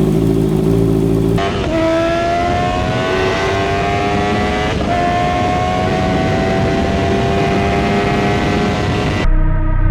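Sport motorcycle engine, first running steadily, then accelerating with its pitch climbing, dipping at an upshift about five seconds in and climbing again.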